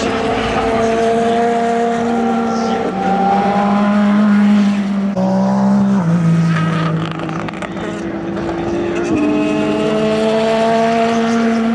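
Race car engines running hard on track. Their pitch climbs slowly and drops in steps about three, five and nine seconds in, as at gear changes.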